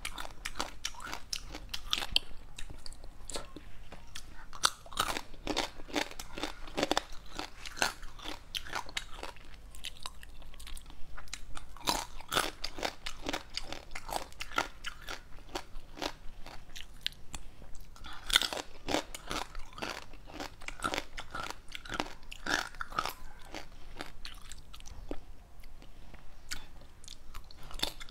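Close-miked crunching and chewing of small whole crabs, their shells cracking between the teeth in a steady run of sharp crackles.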